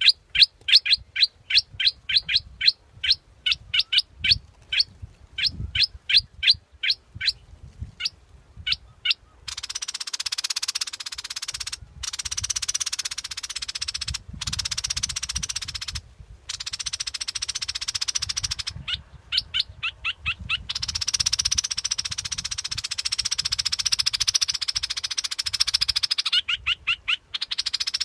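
Bulbul decoy call recording: runs of short, sharp chirps, about three a second, alternating with long stretches of a dense, harsh trill, switching abruptly from one to the other.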